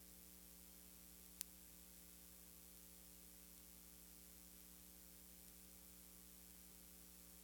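Near silence: a steady electrical hum with hiss, and one brief click about a second and a half in.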